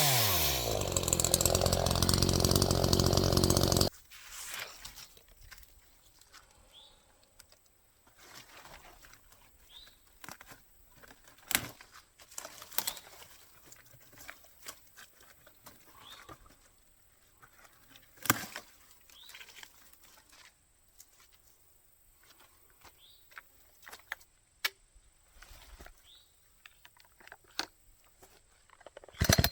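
Echo chainsaw engine running steadily at idle, then shut off abruptly about four seconds in. After it stops come scattered sharp knocks and clicks, a few louder than the rest, and faint chirps.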